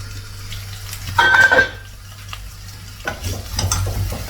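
Chicken pieces and spices frying in a pot with a low sizzle. About a second in, cookware clanks once with a brief ringing note. From about three seconds in, a spoon stirs the pot in quick scraping strokes.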